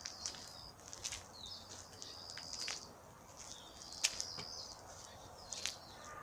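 Small birds chirping outdoors: short, high calls repeated several times, mixed with sharp ticking clicks.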